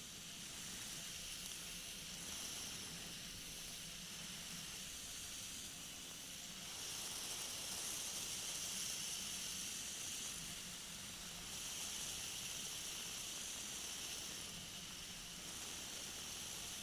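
Steady hiss of airflow and engine noise aboard a flexwing microlight trike in flight, with a faint low hum underneath, swelling gently now and then.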